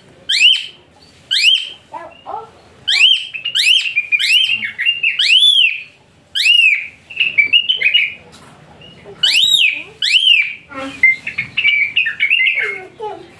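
Asian pied starling (jalak suren) singing: a series of loud, shrill notes, each rising and then falling. About eleven seconds in, the notes give way to a fast, jumbled chatter.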